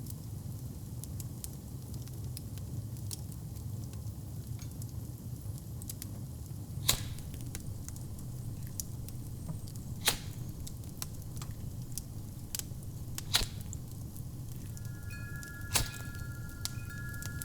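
Wood fire in a fireplace burning with a low steady rumble and scattered crackles, four louder pops standing out. Near the end a wind chime rings with a held tone.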